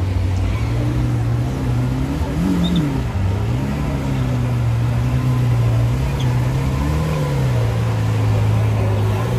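Lamborghini Aventador SVJ Roadster's naturally aspirated V12 idling steadily, blipped twice with short revs that rise and fall back, about two seconds in and again about seven seconds in.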